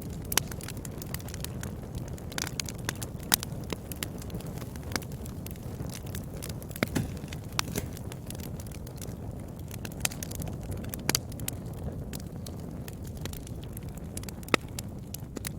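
Wood fire burning in a fireplace: a steady low rumble of flames with irregular sharp crackles and pops, a few every second.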